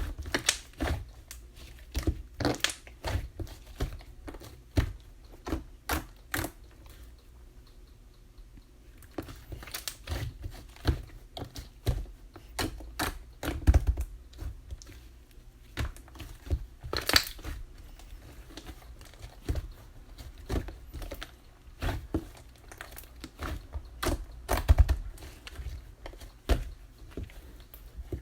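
Chocolate slime being squished and pressed by hand, giving irregular sharp clicks and crackles, with a quieter pause a third of the way in.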